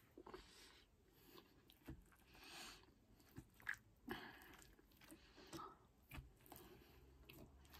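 Faint, close-miked chewing of soft, cheese-covered fries, with wet mouth sounds and a few light clicks as a wooden fork digs into the plate.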